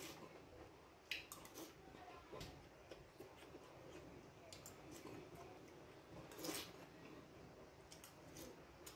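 Near silence with faint eating sounds: soft chewing and a few small mouth clicks as rice and fish are eaten by hand.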